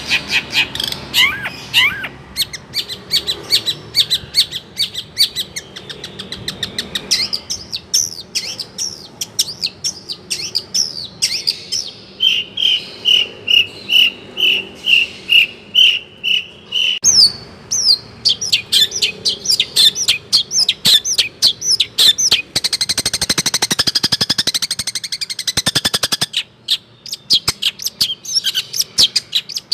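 Long-tailed shrike (cendet) singing a loud, varied song full of mimicked calls of other birds, swiftlets among them. Fast chattering runs of notes, then a steady series of about ten even whistled notes, then a rapid buzzing trill.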